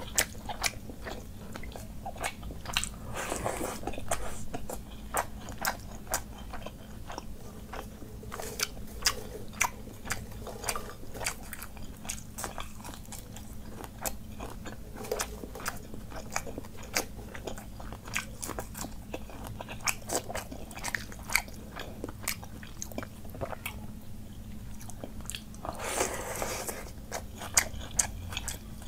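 Close-miked eating of panta bhat (water-soaked rice) by hand: steady chewing with many sharp crunchy clicks and bites. There are two longer wet, rustling swells, about three seconds in and again near the end.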